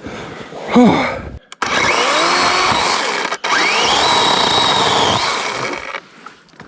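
Ski-Doo snowmobile engine revving hard in two bursts of about two seconds each, with a short break between, rising in pitch as it revs. It is stuck in wet snow and being driven to break free.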